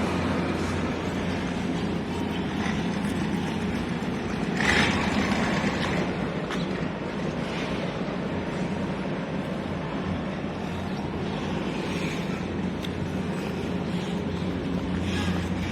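Steady low mechanical hum of engines or machinery over a general harbour noise haze, with a brief louder hiss about five seconds in.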